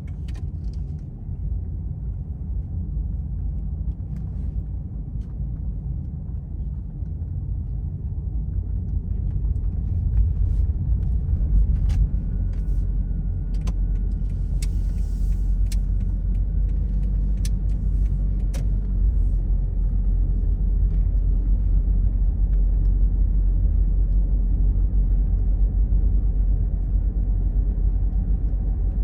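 Steady low rumble of a car driving on the road, tyres and engine, growing louder about ten seconds in. A few sharp clicks sound in the middle.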